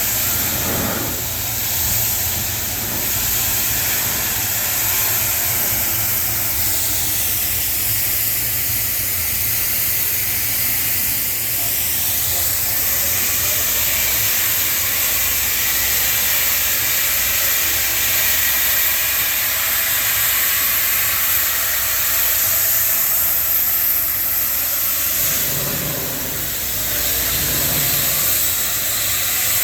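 Steady rushing hiss with a low rumble underneath from a harbour liberty boat (a motor launch) coming in, its engine and wash sweeping past in the middle.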